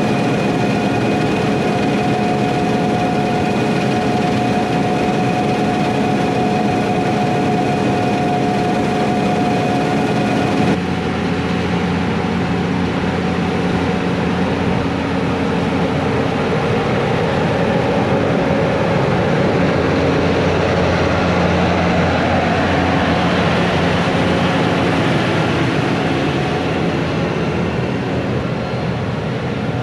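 Heavy harvest machinery running steadily: a diesel engine drone with steady high whines from the machine's drives. About eleven seconds in the sound changes abruptly to a different machine running.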